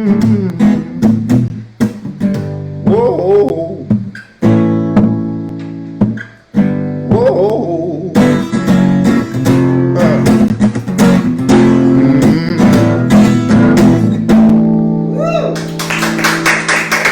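A man sings a drawn-out "whoa" over strummed acoustic guitar as a song winds down in its closing bars. Audience applause starts near the end.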